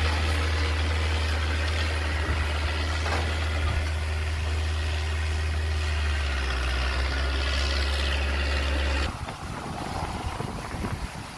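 Heavy diesel engine of an earthmoving machine running steadily at low revs. It cuts off suddenly about nine seconds in, leaving a fainter, rougher rumble.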